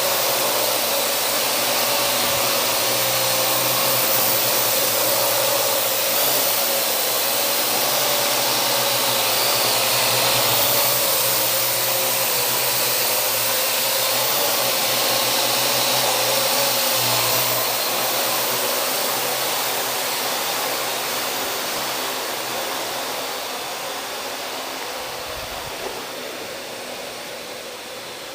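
Parrot AR.Drone quadcopter's four rotors whirring in flight, the motor whine wavering up and down in pitch as it manoeuvres. The sound grows fainter over the last third.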